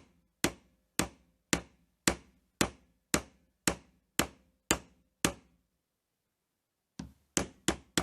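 Light tool blows on a wooden block, driving a car door-lock cylinder out of its housing held in a vise: about ten sharp knocks at an even two a second, then after a pause a quicker run of three or four near the end.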